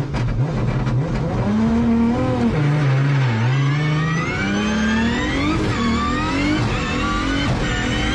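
New-generation Toyota Supra engine revving up and down as the car drifts, its pitch repeatedly rising and falling, with tyre squeal.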